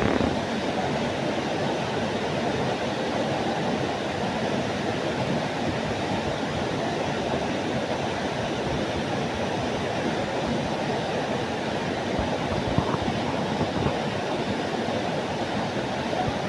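A waterfall's steady roar: water falling and churning, an even rushing noise with no pauses.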